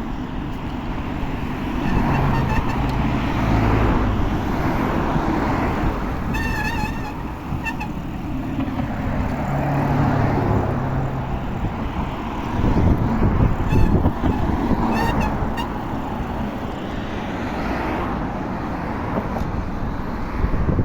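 Road traffic: motor vehicles going by with a continuous, fluctuating rumble. A few short high chirps come through about six and a half seconds in and again around fourteen to fifteen seconds.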